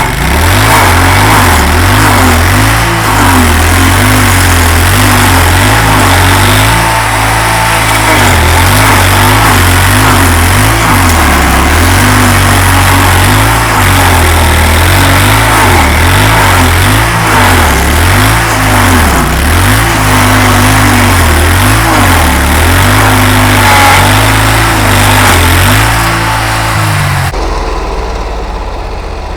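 A 27-horsepower stump grinder's engine runs hard, its pitch rising and falling under load as the toothed cutting wheel grinds into a tree stump, with a dense rush of grinding noise over it. About 27 seconds in, the grinding noise stops and the engine sound starts to die down.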